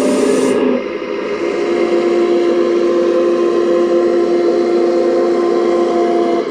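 Electric hydraulic pump and motors of a radio-controlled model excavator whining steadily. The pitch steps up about a second in.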